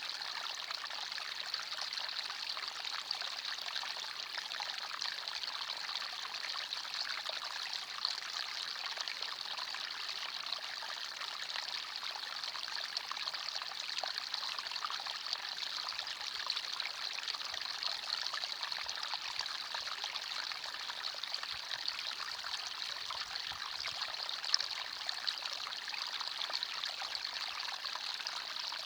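Forest stream flowing steadily, an even trickling rush of water.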